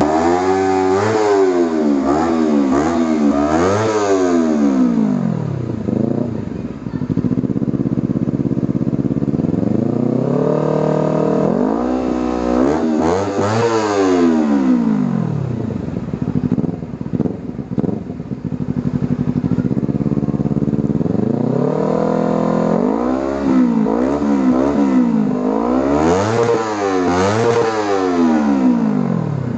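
Motorcycle with an Akrapovic racing exhaust being revved, with a bassy exhaust note. A few quick throttle blips come first, then idle, one long rev that rises and falls about halfway through, more idle, and a second run of quick blips near the end.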